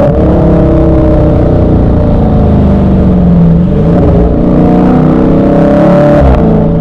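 Loud V8 muscle-car engines revving: the pitch climbs and falls back a few times, with more than one engine at once, and a rev drops off sharply near the end.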